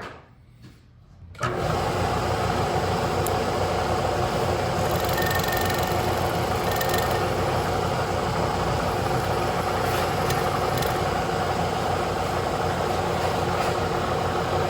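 A machine tool's spindle starts about a second and a half in and runs steadily while a center drill spots the hole location in the valve control rod.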